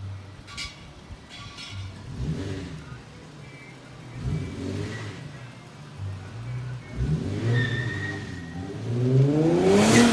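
Infiniti G37's 3.7-litre V6 running with its muffler deleted, blipped up in several short revs, the last and loudest climbing steeply near the end.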